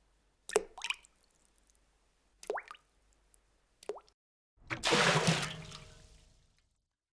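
Water plopping: short plops into water, each with a quick rising 'bloop', come about half a second in, at two and a half seconds and near four seconds. Then a bigger splash about five seconds in fades away over a second and a half.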